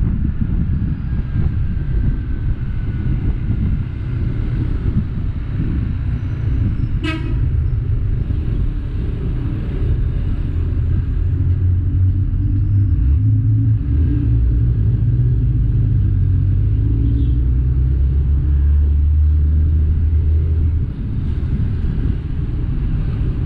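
Road vehicle driving along: a steady low engine rumble mixed with wind noise on the microphone, growing heavier about ten seconds in and easing near the end. A brief horn toot sounds once about seven seconds in.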